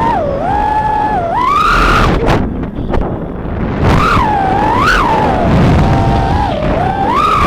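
Whine of a 3-inch FPV quadcopter's brushless motors and propellers in flight, its pitch rising and falling sharply with each throttle change, with quick surges about two seconds in and again around four and five seconds.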